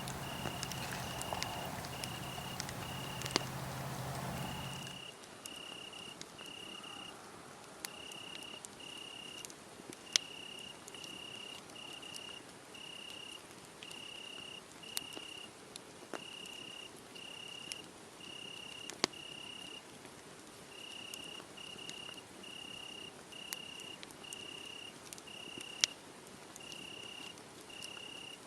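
Crickets chirping in a steady rhythm of short, high chirps, about one and a half a second, over a wood fire that gives an occasional sharp crackle or pop. A low hum runs under them for the first five seconds and cuts off abruptly.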